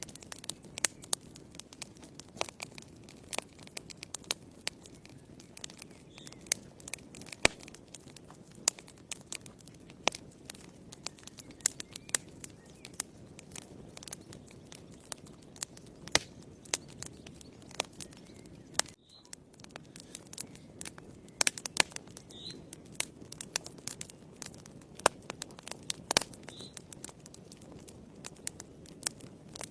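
Wood fire in a fireplace crackling: irregular sharp pops and snaps over a soft steady rustle of burning logs. The sound briefly cuts out about two-thirds of the way in.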